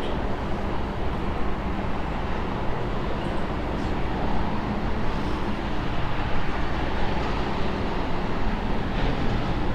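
Steady outdoor urban background noise: an even low rumble with no single event standing out.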